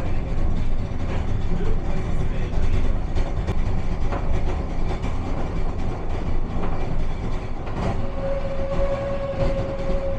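Aigle–Leysin rack railway train running, a steady low rumble with scattered clicks and knocks from the running gear; a steady high whine comes in near the end.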